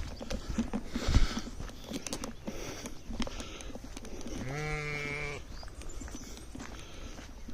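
A young goat or lamb bleats once, a wavering call about a second long, a little past the middle. Scattered steps and knocks run throughout, with a louder thump about a second in.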